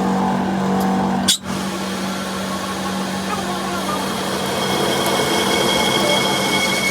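A machine running steadily with a low hum, cut by a sharp click about a second in. A few seconds later a high steady whine joins the mechanical noise.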